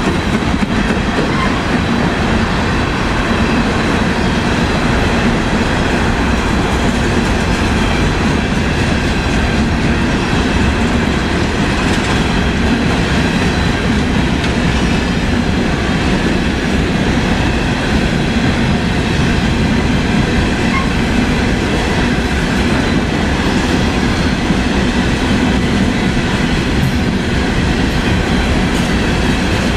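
A train's cars rolling steadily along the track, a continuous loud run of wheel-on-rail noise.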